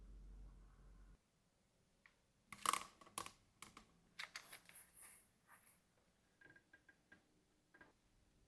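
Small hard objects being handled: a low hum cuts off about a second in, then a cluster of light clicks and taps follows, trailing off into a few faint ticks.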